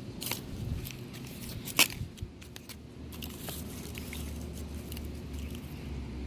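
Cardboard being handled, giving scattered crinkles and light taps, with one sharp knock about two seconds in.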